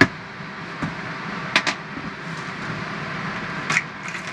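Several sharp clicks and knocks of the old plastic shower head mount and its screws being handled as it comes off the wall: one at the start, one about a second in, a quick pair midway and one near the end. A steady whir runs underneath.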